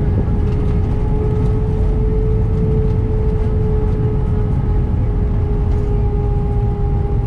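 Airbus A319 cabin noise by the wing: a steady low rumble with a steady jet-engine whine over it.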